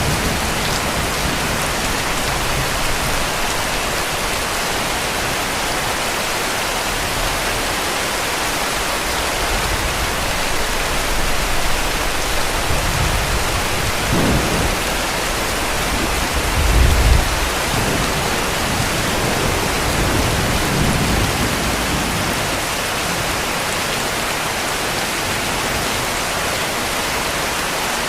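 Heavy rain falling steadily, with low rumbles of distant thunder several times, the strongest about two-thirds of the way through.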